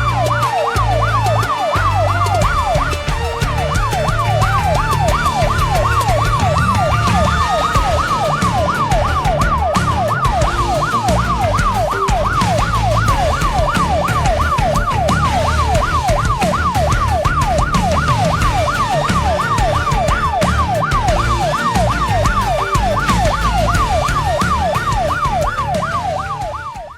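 Emergency vehicle sirens: one in a fast yelp of about three rising sweeps a second, overlapping a slower wail that rises and falls every several seconds, over a low engine rumble.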